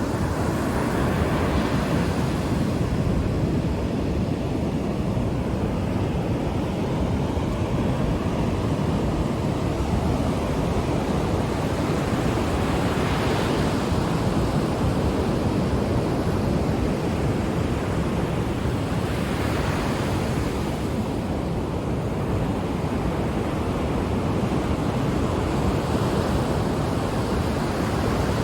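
Ocean waves breaking and washing on the shore, a steady rushing surf with gentle swells as waves come in, with some wind on the microphone.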